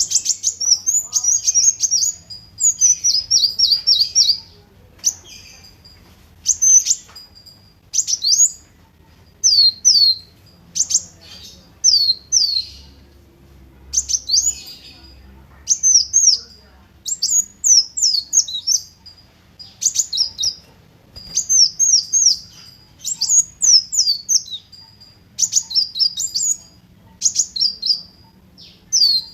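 Kolibri wulung sunbird singing: short phrases of high, thin chirps and quick falling notes, coming one after another about every second or so.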